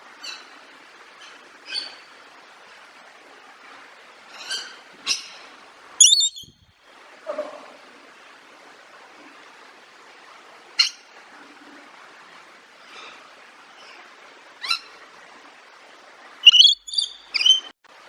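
Birds calling: short, separate chirps and calls at irregular intervals over a steady faint hiss, with a quick run of louder calls near the end.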